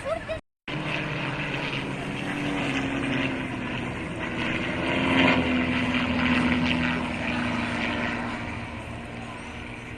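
Propeller airplane's engine passing overhead. The steady drone swells to its loudest about five seconds in, drops slightly in pitch as it passes, and fades away.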